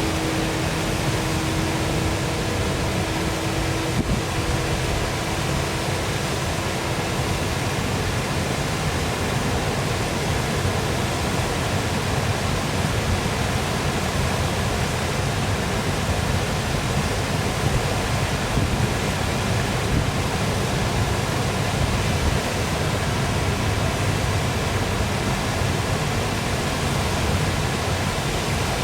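Waterfall rushing in a steady, even wash of falling water. A faint steady hum sits underneath for the first seven seconds or so, then stops.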